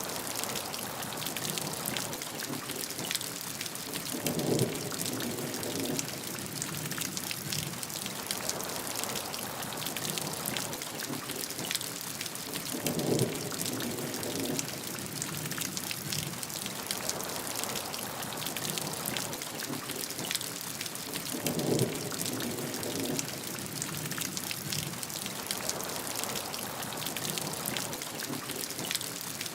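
Steady heavy rainfall, a dense hiss of drops. A brief, louder, lower-pitched swell recurs evenly about every eight and a half seconds, four times in all.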